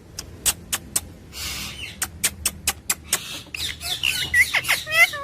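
Pet parrot making a run of sharp clicks with a short noisy burst among them, then quick chirping calls that bend up and down near the end.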